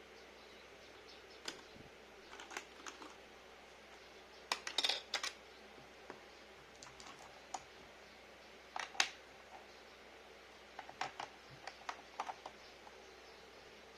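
Keys on a mechanical keyboard with Cherry MX Red switches being pressed in short, irregular clusters of keystrokes with pauses between, as in testing the keys.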